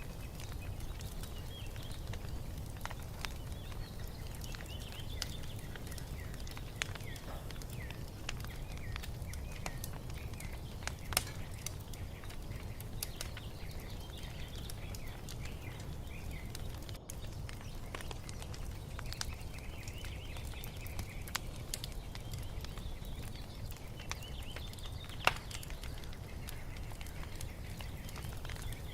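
Wood fire crackling with scattered sharp pops, one louder pop near the end, over a steady low rumble, while small birds chirp and twitter in the background.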